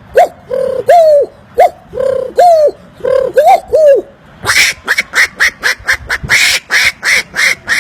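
A man imitating bird calls with his mouth: a run of short, arched, pitched calls at about two to three a second, then about four seconds in a faster, harsher run of calls at about four or five a second.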